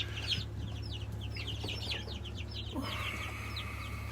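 A brood of baby chicks and turkey poults peeping, many short high downward-sliding peeps overlapping continuously over a steady low hum.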